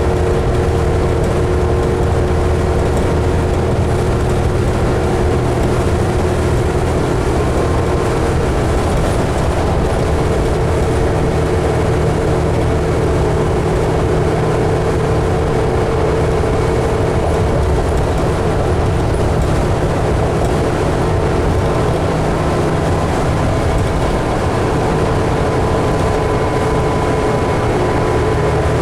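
A 2011 New Flyer D60LFR articulated diesel bus under way, heard from inside: a steady drone of engine and road noise that changes little in pitch or loudness.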